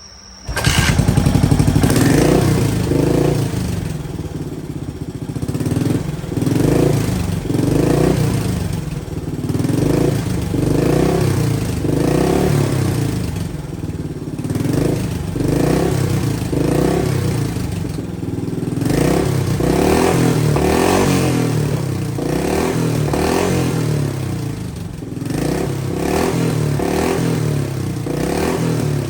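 Yamaha SR400's air-cooled single-cylinder four-stroke engine catching about half a second in and then running, its revs rising and falling repeatedly, roughly once a second.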